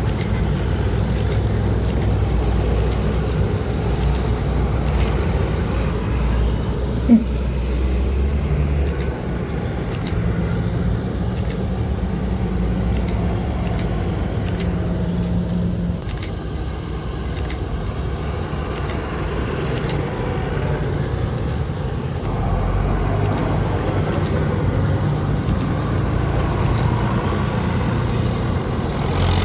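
Tractor engines running steadily, one engine tone giving way to another every few seconds, with a single short, sharp sound about seven seconds in that is the loudest moment.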